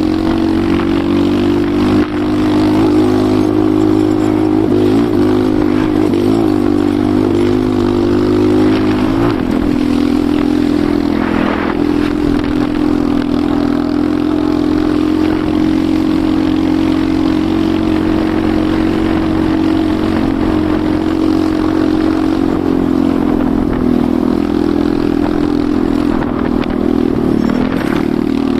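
Enduro motorcycle engine running steadily under way at an even speed, its pitch wavering briefly a few times as the throttle eases and picks up.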